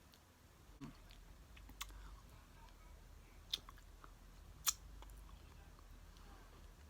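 A person chewing and biting into loaded tortilla-chip nachos, with four short crisp clicks spread through, the loudest about two-thirds of the way in.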